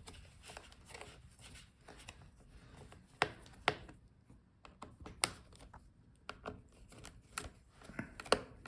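Small screwdriver clicking and tapping on the heatsink screws of a Lenovo ThinkPad P1 Gen 5 laptop as the remaining screws are undone, with light handling taps on the metal heatsink. Several sharper clicks come about three seconds in and again near the end.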